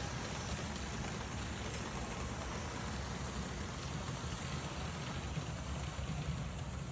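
Märklin HO model train running along the track: a steady rumble with an even hiss on top.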